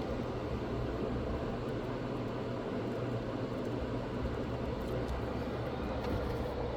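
A small bench blower or fan running steadily, giving a constant airy hiss over a low hum, as used when heating solder on a laptop motherboard.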